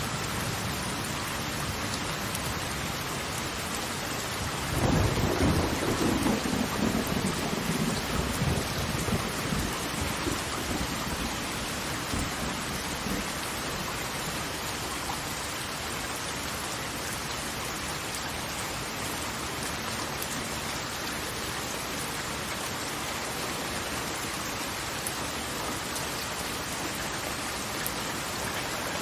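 Steady rush of falling water or rain, with a low rumble that swells sharply about five seconds in and fades away over several seconds, like rolling thunder.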